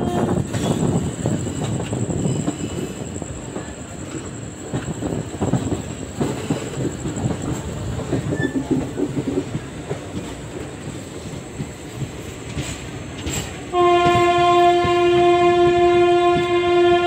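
Indian Railways passenger train running, with the rumble and clatter of the coach's wheels over the rails. A locomotive horn note fades out at the very start, and about three-quarters of the way through a long, loud horn blast sounds for around three seconds.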